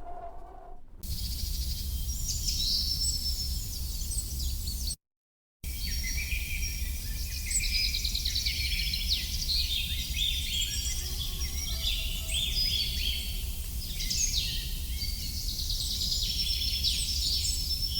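Many birds chirping and trilling together in a dense chorus over a steady low rumble. The sound cuts out completely for about half a second around five seconds in, then the chorus resumes.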